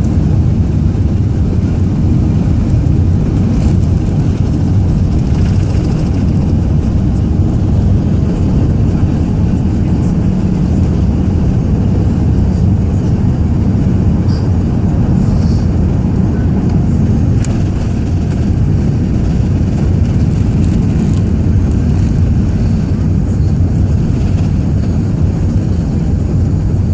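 Steady low rumble of Airbus A380 engine and airflow noise, heard from inside the cabin.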